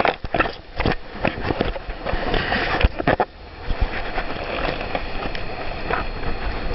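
Storm wind buffeting the microphone aboard a Laser sailing dinghy, with water rushing past and repeated sharp knocks and slaps, loudest about three seconds in.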